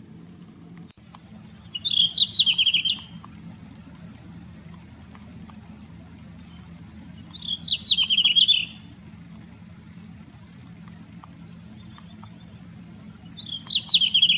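A small songbird sings a short, quick warbled phrase three times, about six seconds apart, over a steady low hum.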